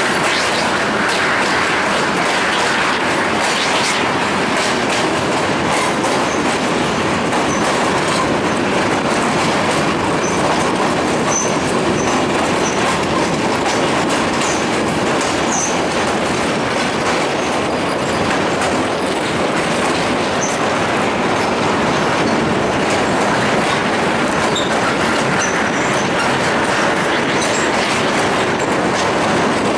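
Passenger train running at speed, heard from on board: a steady rumble and rush of coach wheels on the track with a clickety-clack of rail joints and brief high squeaks from the wheels here and there.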